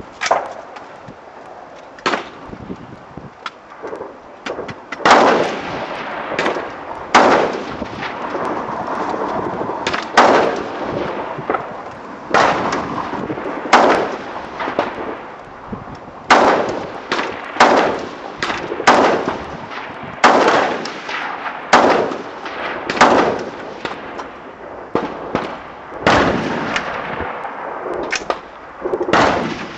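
AR-15 rifle with a BCM 14.5-inch midlength upper firing a string of slow, aimed single shots, about one to two seconds apart, each a sharp crack with a short echoing tail. Fainter shots sound in the first few seconds.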